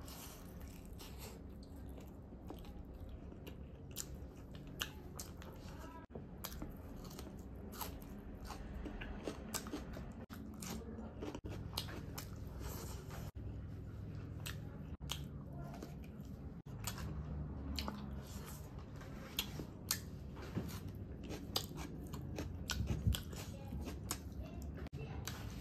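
A person chewing mouthfuls of chicken egg fried rice eaten by hand, with many small wet mouth clicks throughout.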